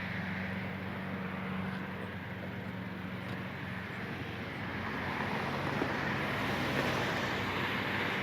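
Passing road traffic: a steady low engine hum with tyre and road noise.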